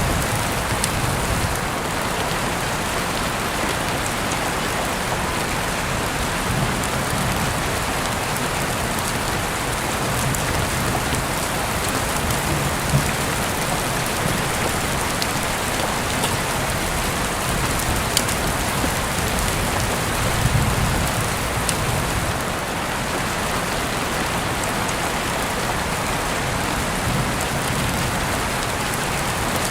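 Steady rain falling on a surface, an even hiss with scattered sharp ticks of individual drops. Soft low rumbles swell up a few times underneath.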